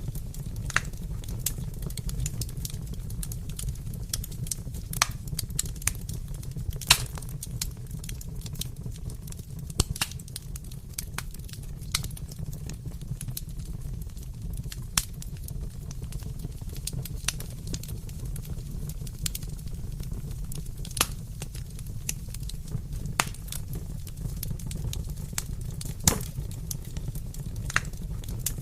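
Wood fire crackling in a fireplace: a steady low rumble of burning with irregular sharp pops and snaps, a few louder than the rest.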